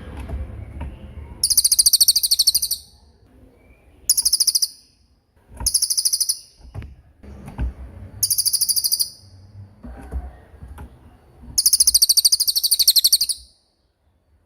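A songbird calling in loud, high, rapid trills of evenly repeated notes, five bursts in all, the first and last the longest, with low background rumble between them.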